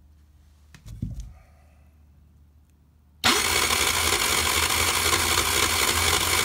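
49cc scooter engine being cranked over by its starter motor, starting suddenly about three seconds in with a steady, even whir that does not catch and run: the engine has no spark, which the owner puts down to a stator giving very little voltage. A single thump comes about a second in.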